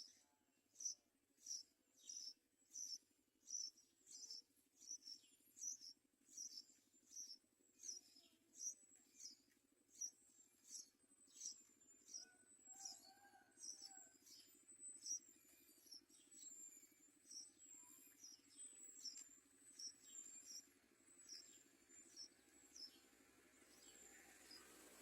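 Yellow-vented bulbul chick giving begging calls: a long run of short, high chirps that fall in pitch, repeated about one and a half times a second.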